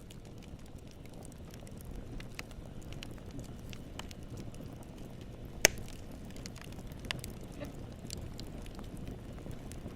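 Wood campfire burning: a steady low rush of flames with scattered crackles and pops from the wood, and one sharp, much louder pop a little past halfway.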